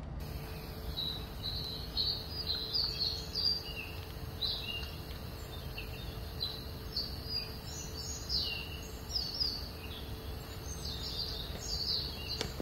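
Small songbirds chirping in quick short notes, over a low steady rumble.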